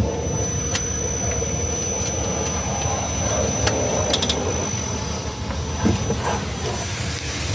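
BYD Yuan Pro electric SUV on the move, heard as a steady road rumble with a thin high whine and scattered short knocks and creaks from the body. The noise comes from a welded body nut that vibrates.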